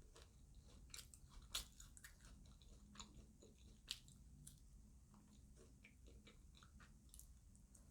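Faint close-miked chewing: soft, irregular mouth clicks and smacks, with two sharper clicks about one and a half and four seconds in.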